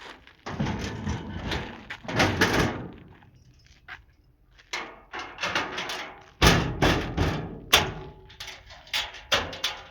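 A series of knocks, thuds and scraping sounds, with two sharp bangs about two thirds of the way in.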